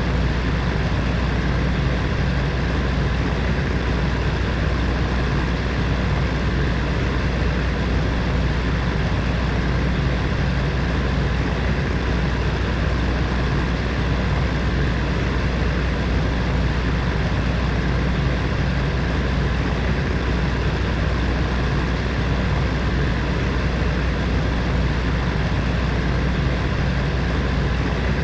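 Electric heater fan running steadily: a constant low hum with a whirring rush of air, unchanging throughout.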